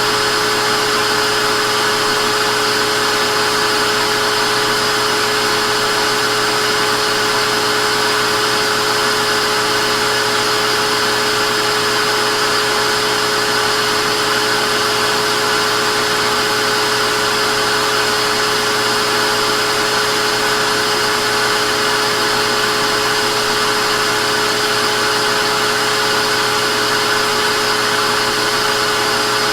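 Vacuum cleaner running continuously, a steady motor whine over an even rush of air that never changes.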